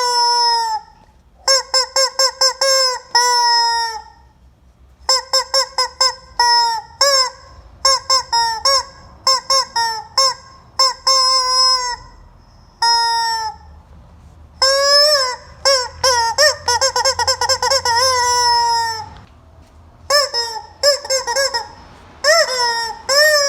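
Rubber chicken squeeze toy squawking, squeezed over and over in quick runs of short honks, with a few longer drawn-out squawks and short pauses between runs.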